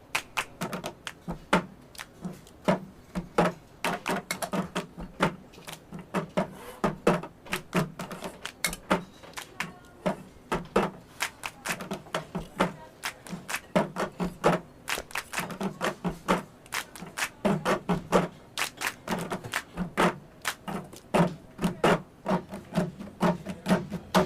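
Cup-game percussion on its own, without singing: a plastic cup clapped, tapped and knocked down on a tabletop with hand claps, in a fast repeating rhythm of sharp clicks and low thumps.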